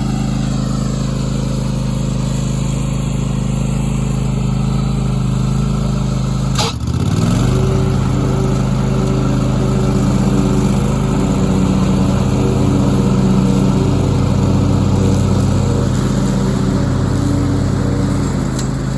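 John Deere X540 lawn tractor's V-twin engine running steadily. About seven seconds in there is a sharp click and the engine dips briefly, then it picks back up and carries on running at a steady speed.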